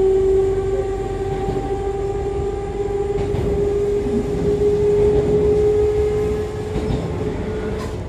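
Onboard running sound of an Echizen Railway MC6101 electric railcar, the car singled out for an unusual noise. Its MT54 DC series-wound traction motors and gears whine in a steady tone that creeps slightly higher, over wheel and track rumble. The whine cuts off just before the end.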